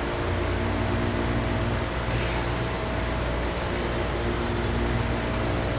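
A steady low mechanical hum with a few pitched tones runs throughout. From about halfway, a high electronic double beep repeats about once a second, four times: a phone timer's alarm going off at the end of the one-minute countdown.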